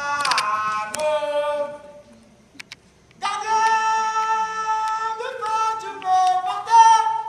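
Voices singing a campfire song, with a short break about two seconds in, then a long held note and a few shorter notes near the end.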